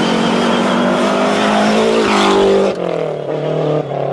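Rally car engine running hard at high revs, with a sudden drop in pitch and level about two-thirds of the way through as it changes gear, then pulling again.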